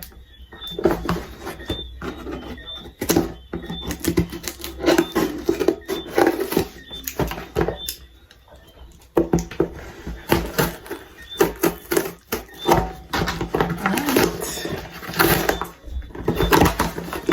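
A package being opened by hand: irregular rustling, crinkling and tearing of box and wrapping.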